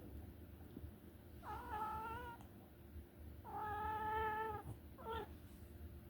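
Two-week-old kitten mewing three times: a call, a longer and louder call, then a short one.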